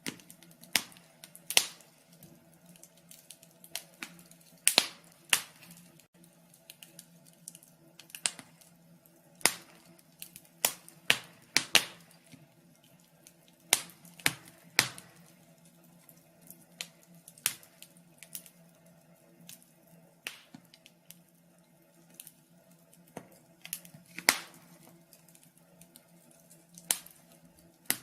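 Fire crackling: irregular sharp pops and snaps, a few each second and some much louder than the rest, over a faint steady hum.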